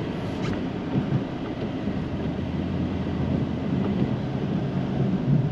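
Plow truck's engine running steadily, a low even drone, while pushing snow.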